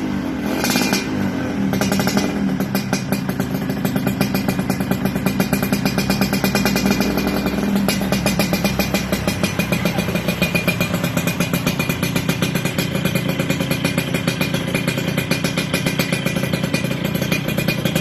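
Yamaha RX-series two-stroke single-cylinder motorcycle engine running through an aftermarket racing exhaust, at a steady idle with a regular pulsing beat.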